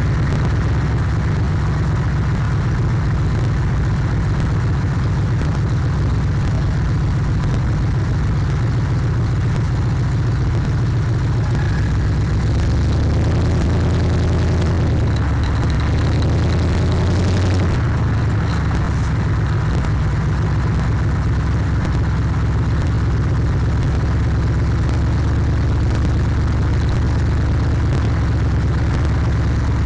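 A loud car engine and exhaust running steadily at cruising pace, heavy in the low end and distorted from overloading the car-mounted microphone. The engine note swells briefly about halfway through.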